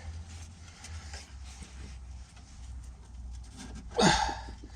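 A man's strained grunt, falling in pitch, about four seconds in, made while pushing hard on a stuck piston. Under it a low steady hum and faint handling noises.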